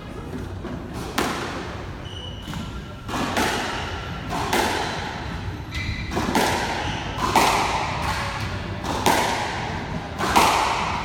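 A squash rally: the ball is struck by the rackets and hits the court walls in sharp cracks every second or two, each ringing briefly in the enclosed court.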